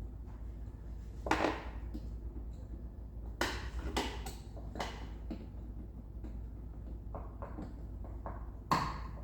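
Hand tools and hose fittings knocking and clinking against metal in a car's engine bay while a coolant hose is worked free at the heater matrix. There are scattered sharp knocks: one about a second in, a cluster around four seconds in, light ticks later on, and a louder knock near the end.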